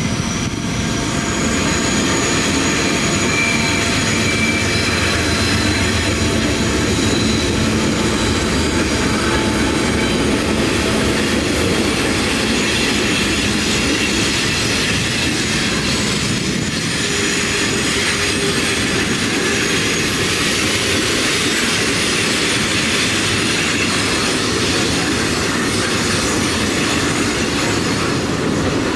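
A long, heavy freight train passing: the lead diesel locomotives go by at the start, then a string of double-stack container well cars rolls past with a steady rumble of steel wheels on rail. Thin high wheel squeal comes and goes.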